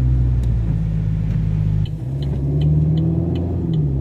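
Car engine running, heard from inside the cabin while driving, its pitch dipping and shifting about halfway through. From then on a regular light ticking comes about three times a second.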